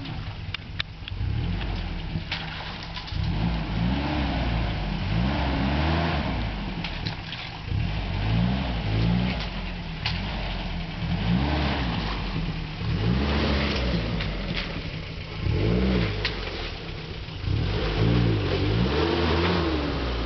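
Off-road SUV engine revving up and down over and over, the throttle opened and closed every second or two, over a steady low rumble. Scattered sharp clicks and knocks run through it.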